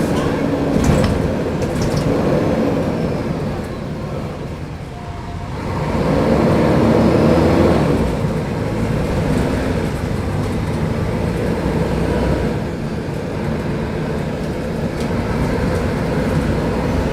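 Diesel engine of a Mercedes-Benz O500UDA articulated bus with a Caio Millenium BRT body, running under way with road and body noise. It eases off about four seconds in, then pulls again a couple of seconds later.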